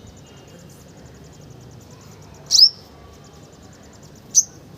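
Two sharp, high chirps from a sunbird, about two seconds apart, over a fast, steady, high ticking trill.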